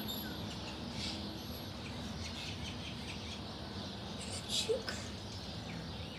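Birds chirping over steady background noise, in short scattered chirps with a louder one about four and a half seconds in.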